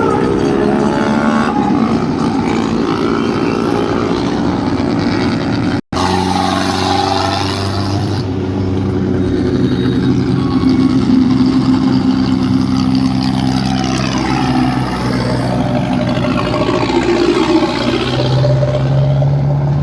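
Diesel tractor engines running hard and revving, rising and falling in pitch, with a sudden break about six seconds in where the footage cuts.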